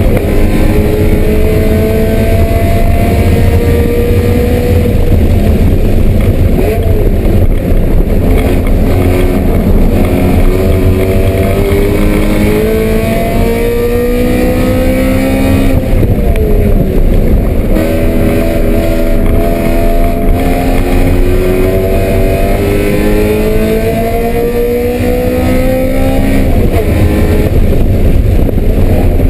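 BMW M3 engine pulling hard on a racetrack, its pitch climbing slowly in long runs and falling sharply twice, about halfway through and near the end, over a heavy low rumble of wind and road noise.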